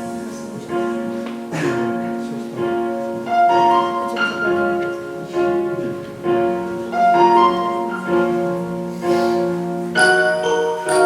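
Instrumental intro to a worship song: a keyboard plays repeated sustained chords in a steady pulse, without singing. A brighter, higher bell-like part joins about ten seconds in.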